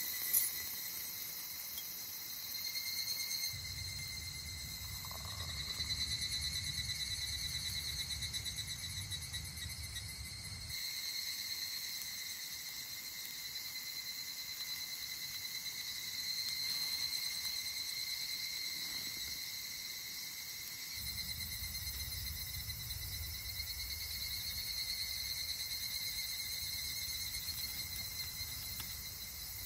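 Insects chirring steadily in several high, finely pulsing layers, a summer insect chorus of crickets and similar singers. A low rumble comes in for two long stretches, and there is one short click just after the start.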